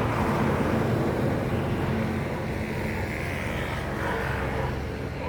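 Steady rumble of motor traffic, easing slightly in the second half.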